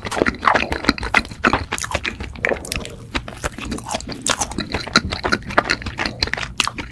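Close-miked chewing of a soft cream-filled doughnut: a fast, uneven run of short mouth clicks.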